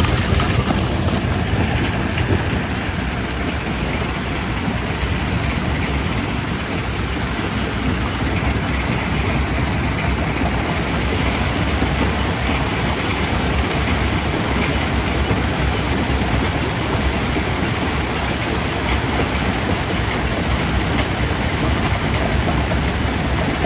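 Quarry primary rock crusher running, a steady heavy rumble with rock clattering and cracking in a constant stream of small knocks.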